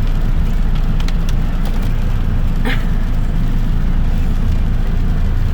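Steady low rumble of a car's road and engine noise, heard from inside the cabin while driving, with a short sharp sound about halfway through.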